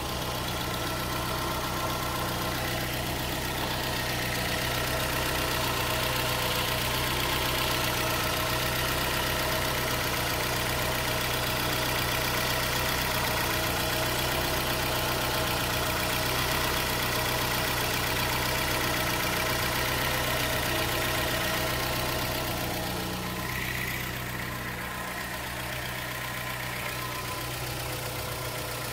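Fiat Punto Mk2's 1.2-litre 8-valve four-cylinder petrol engine idling steadily, dipping slightly in level a little over twenty seconds in.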